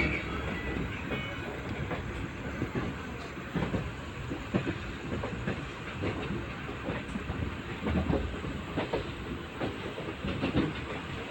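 LHB passenger coach running along the track: a steady rumble of wheels on rails, broken by irregular clacks and knocks.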